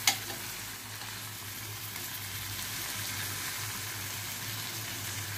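Stuffed brinjals in dry-fish masala sizzling in a metal pot while a metal spatula turns them over. A single sharp clink of the spatula against the pot comes just after the start.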